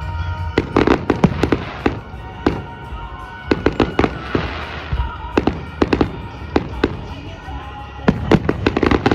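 Fireworks going off: rapid clusters of sharp bangs and crackles, with a crackling hiss a little after four seconds, over music playing in the background.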